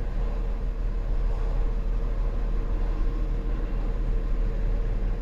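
2008 Volkswagen Passat's 3.6-litre V6 engine idling steadily, with a constant low hum and a steady mid-pitched tone.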